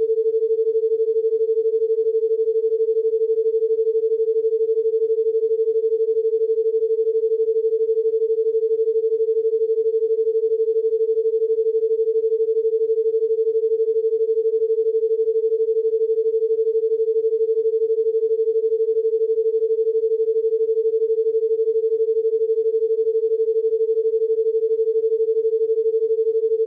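A steady electronic pure tone, one unwavering pitch held at a constant loud level for the whole stretch, with no other sound: a sustained 'healing frequency' sine tone.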